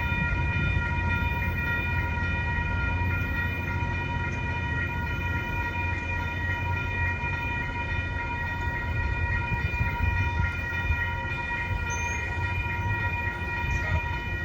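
A train running close by: a low rumble with a steady, high-pitched multi-note tone held throughout.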